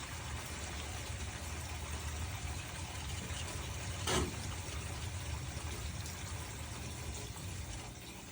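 Water pouring steadily from a pipe into a sump pit, a continuous rush over a low hum. A single short click about four seconds in.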